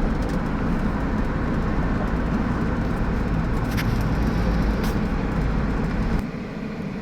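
Gantry crane's machinery running with a steady low rumble while it hoists a load, with a couple of faint clicks; the rumble drops off abruptly about six seconds in.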